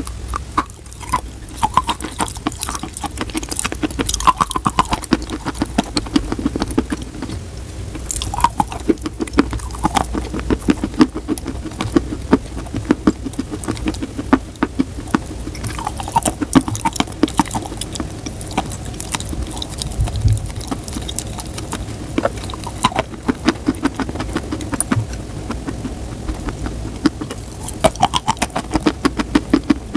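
Close-miked crunching and chewing of chalk, with many sharp crackles as it is bitten and ground between the teeth.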